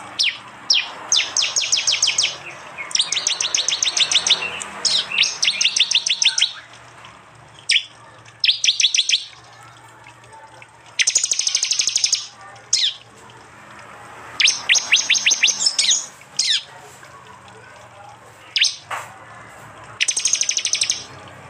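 Prinias (prenjak) giving their loud 'tembakan' call: repeated bursts of rapid, sharp high chipping notes a second or two long. Single high chip notes fall between the bursts.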